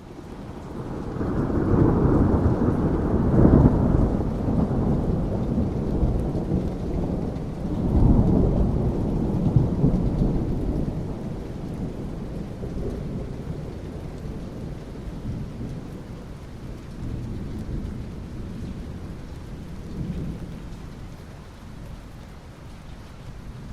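Rolling thunder over steady rain. The deep rumble swells up within the first couple of seconds, surges again about eight seconds in, then slowly dies away, leaving the hiss of rain with fainter low rumbles.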